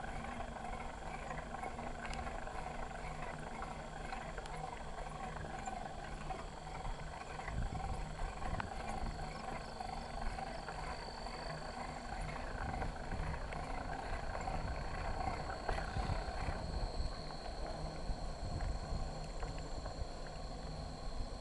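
Bicycle riding along a trail, heard from a handlebar-mounted camera: a steady rumble of tyres and wind, with scattered rattles and clicks from the bike. A faint, steady high tone sits over it.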